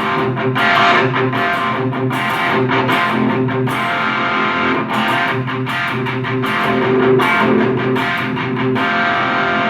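Electric guitar played with overdriven gain through an Abeid Custom Mid Gain pedal into a small amplifier and captured by a room mic: repeated strummed chords and picked notes, sustained and distorted.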